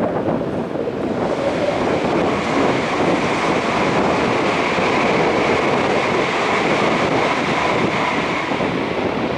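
Train noise: a loud, steady rushing rumble of rail traffic. A faint high ringing tone comes in about a second in and fades near the end.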